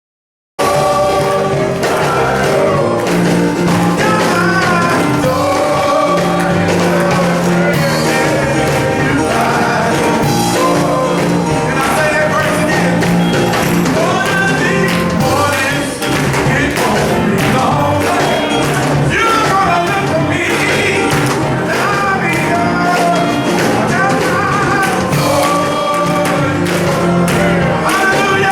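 Gospel music from a male chorus singing with instrumental backing and percussion. It starts abruptly about half a second in and runs on loud and steady.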